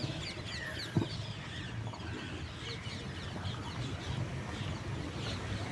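Birds chirping: many short, high chirps that slide downward, with a single sharp knock about a second in over a low steady hum.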